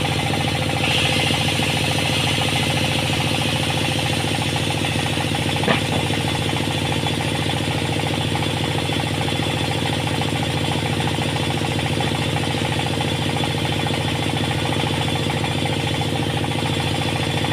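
Sawmill machinery running steadily with a motor-like hum that holds an even pitch, with one short click about six seconds in.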